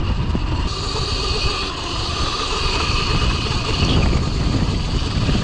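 Cake Kalk OR electric dirt bike under way: the electric motor gives a steady high whine over a low rumble.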